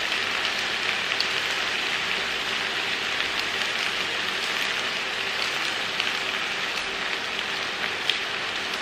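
Minced meat (keema) sizzling steadily in a frying pan with small scattered crackles, as its last moisture cooks off.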